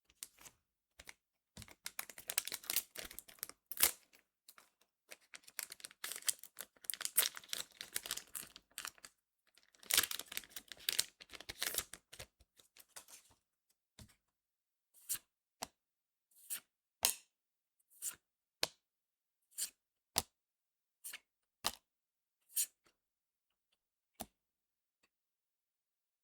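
A trading-card booster pack wrapper being torn open and crinkled for about twelve seconds. Then single cards are flicked through one at a time, a crisp snap about every second.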